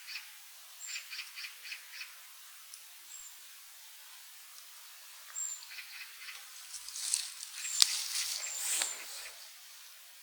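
Small forest birds calling: quick runs of four or five chirps and short, thin high whistles repeating every second or two. About seven seconds in comes a louder rustling with one sharp click.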